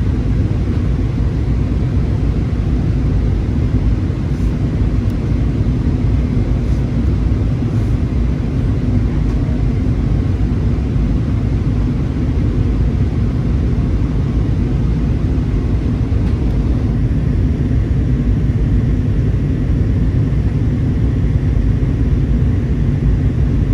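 Steady cabin noise inside an Airbus A320: a constant low rumble of the jet engines and the airflow over the fuselage, with a faint steady hum.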